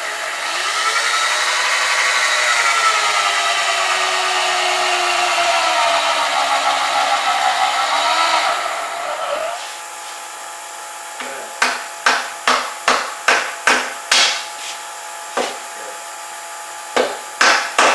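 Cordless drill run by a child on the trigger, the motor whine rising and falling in speed for about nine seconds as it bores a hole for a Miller dowel. Then comes a run of sharp knocks, roughly two or three a second, with three more near the end: a Miller dowel being tapped into its hole.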